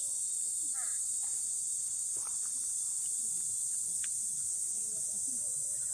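A steady, high-pitched chorus of insects that runs on without a break, with faint voices talking in the background.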